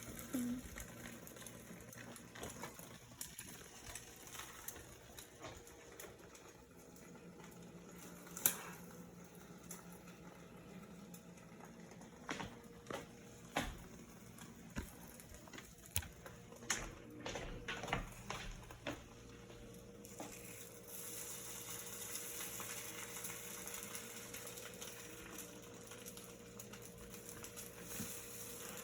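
Eggs frying in a pan, a faint steady sizzle that grows brighter about two-thirds of the way through, with scattered light clicks and knocks of utensils against the pan in the middle.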